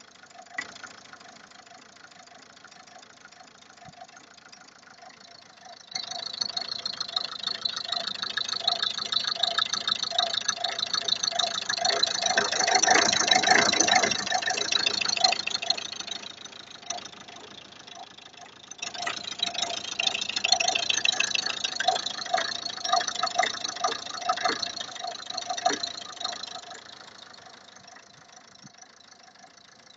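Car engine idling, then revved twice for several seconds each, with a rapid knocking throughout the revs: the knock has come back.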